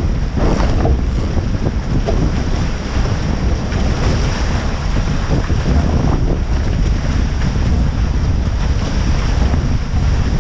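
Strong wind buffeting an action camera's microphone, with water rushing and splashing past the hulls of a Tornado catamaran sailing in strong wind.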